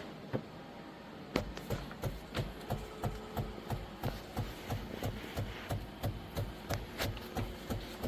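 Philips Series 2300 fully automatic espresso machine at work: after a faint hum, a regular pulsing thump with a click sets in about a second in, around three times a second, with a faint steady hum underneath.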